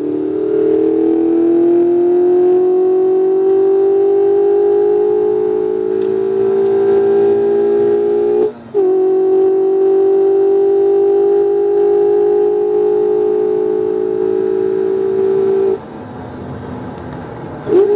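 Mazda MX-5 RF's 2.0-litre four-cylinder engine, heard from inside the cabin, pulling hard down a straight. Its note climbs steadily, breaks sharply once about halfway through at a gear change, then holds high and steady. A few seconds before the end it drops to a quieter, lower sound as the car lifts off and slows for the corner, with a quick blip of revs near the end.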